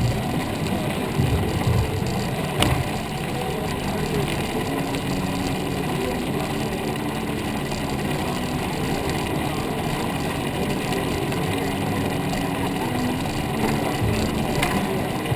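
Steady rumbling noise of riding along on a bicycle: wind buffeting the microphone and rolling noise. Two sharp clicks come through, one a few seconds in and one near the end.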